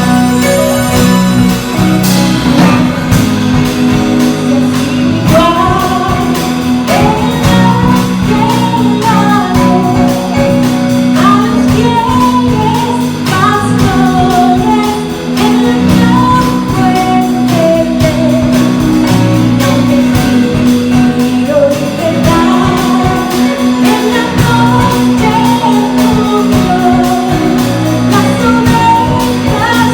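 A Christmas hymn sung with instrumental accompaniment, the melody moving over a steady held bass note.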